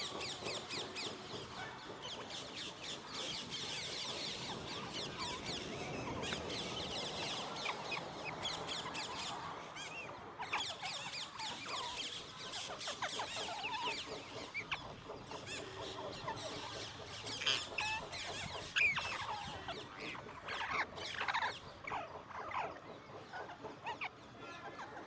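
Alexandrine parakeets chattering, a dense run of short high chirps, with a brief break about ten seconds in and louder separate calls in the second half.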